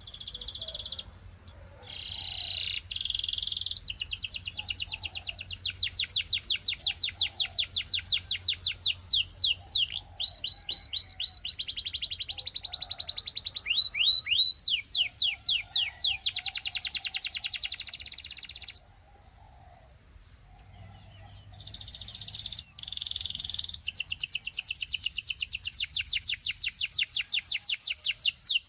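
A canary singing a long song of fast trills: rapid, high, downward-sweeping notes repeated many times a second, in phrases that change in pitch and speed. It breaks off briefly about 19 seconds in, then resumes.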